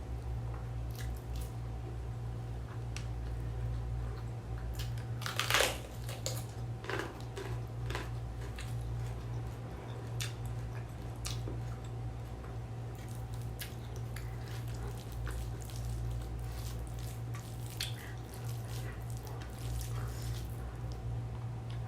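Close-miked eating sounds of mixed rice: wet chewing and mouth smacks with scattered clicks, one louder smack about five and a half seconds in, over a steady low hum.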